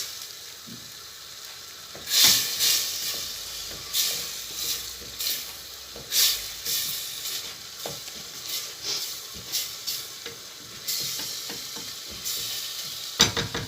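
Butter-and-flour roux sizzling in a pan while it is stirred, with repeated scraping strokes of the utensil against the pan.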